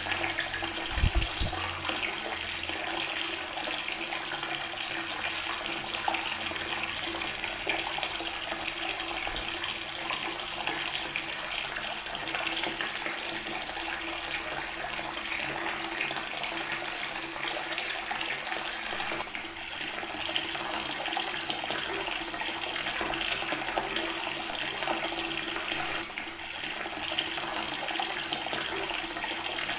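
Water from a tap running steadily and splashing onto natural stone. There is a brief low thump about a second in.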